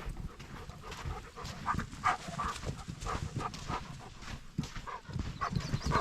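A dog making short, irregular noises over a low, uneven rumble.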